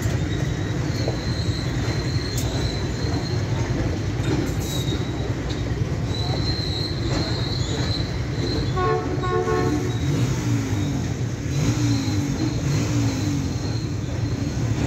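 Freight train wagons rolling past on the track: a steady loud rumble of wheels on rail, with a thin high wheel squeal that comes and goes. A horn beeps briefly a few times about nine seconds in.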